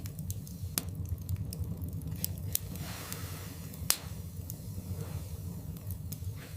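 Wood fire burning in a fireplace: a steady low rumble of flames with irregular sharp crackles and pops from the logs, the loudest pop about four seconds in.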